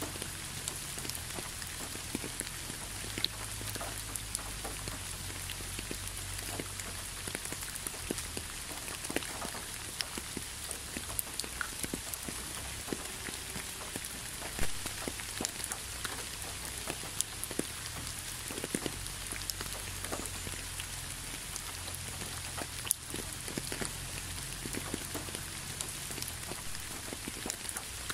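Gentle rain falling onto leaves and a road: a steady hiss with many separate drops tapping throughout.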